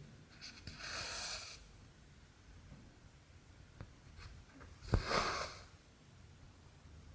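Cotton embroidery thread drawn through cross-stitch fabric: a brief rasping swish about a second in and another about five seconds in, the second starting with a sharp tap.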